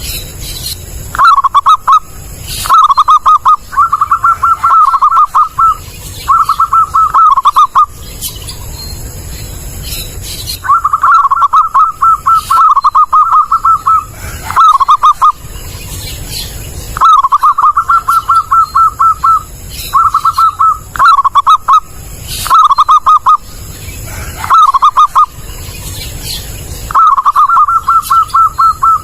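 Zebra dove (perkutut) cooing loud and clear: repeated phrases of quick, rapidly pulsed coo notes, each phrase lasting one to two and a half seconds, with short pauses between them.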